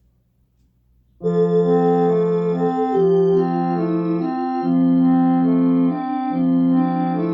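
Keyboard music starting about a second in: a slow melody in held, non-decaying notes over a bass note that repeats about every second and a half, played as a lesson piece.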